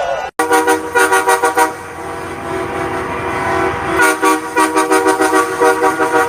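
Truck air horns honking loudly, several pitches sounding together. They give a run of rapid short blasts, then a longer held blast, then more rapid blasts about four seconds in.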